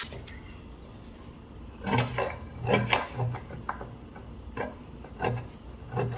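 Irregular knocks and clatter of hard objects being handled, about seven short clunks over a low steady hum.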